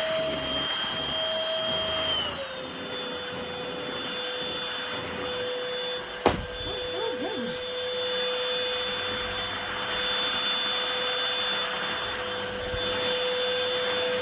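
Cordless stick vacuum cleaner running with a steady motor whine over a rush of air; about two seconds in the pitch drops and then holds at the lower speed. A single sharp click sounds a little after six seconds.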